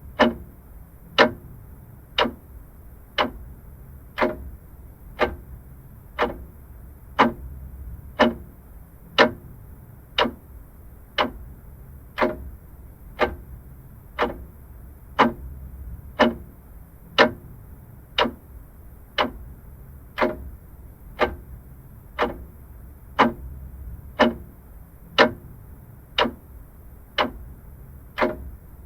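Vintage mechanical clock ticking steadily about once a second, every other tick louder in a tick-tock pattern, with a faint low hum underneath.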